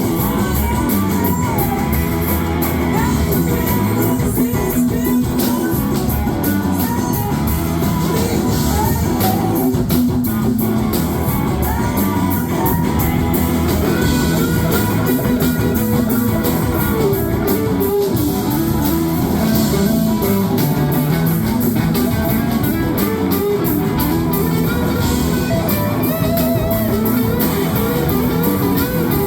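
Live rock band playing an instrumental stretch: a lead electric guitar with gliding notes over bass and drums.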